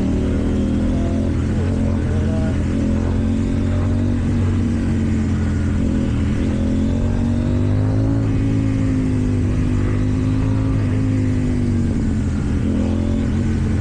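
KTM Duke 790 parallel-twin engine with an Akrapovič exhaust, running steadily under light throttle while riding. Its pitch climbs gently in the middle and dips a little near the end.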